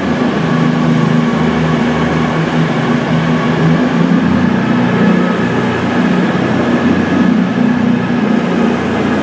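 Class 221 Super Voyager diesel multiple unit's underfloor diesel engines running, a steady low drone with several held tones.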